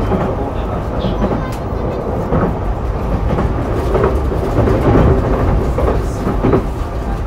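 Running noise inside a Sotetsu 12000 series electric train car: a steady low rumble of wheels on the track, with scattered short knocks.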